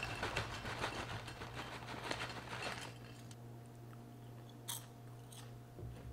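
Crisp crunching as a baked cheese crisp is chewed close to the microphone, dense crackling for about the first three seconds and then dying away. A couple of faint clicks follow later.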